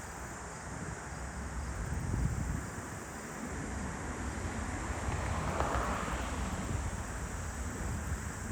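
Gusty wind buffeting the microphone over the hiss of an Airbus A380's jet engines at taxi power, the engine hiss swelling briefly past the middle.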